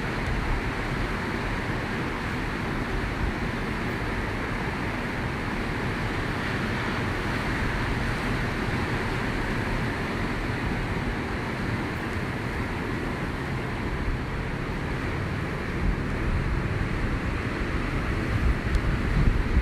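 Steady rush of ocean surf, with wind buffeting the microphone in the last few seconds.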